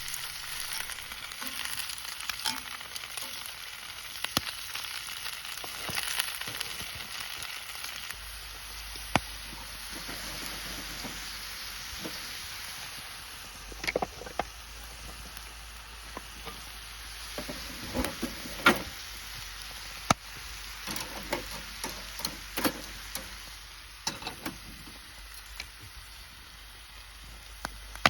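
Food sizzling as it fries, a steady hiss broken by scattered sharp clicks and knocks, the loudest a few about two-thirds of the way through.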